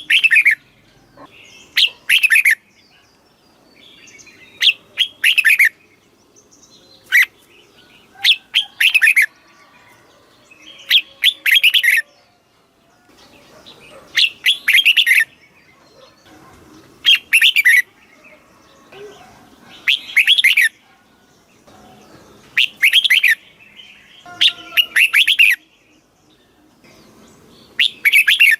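Red-whiskered bulbul singing: short, bright whistled phrases repeated every two to three seconds, several of them delivered as two quick bursts in a row.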